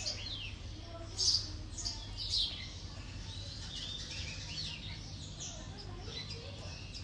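Small birds chirping: many short rising and falling chirps, with two louder, sharper ones in the first few seconds, over a low steady hum.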